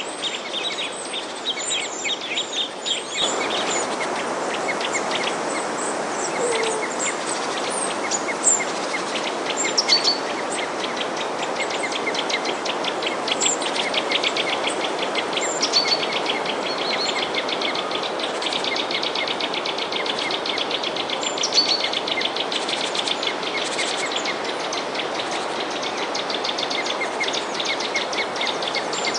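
Many small birds chirping and twittering over one another, with rapid trills mixed in. A steady rushing noise sets in suddenly about three seconds in and runs under the birdsong.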